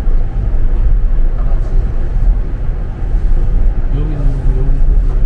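Steady low rumble of the Wolmi Sea Train monorail car running along its elevated track, heard from inside the car.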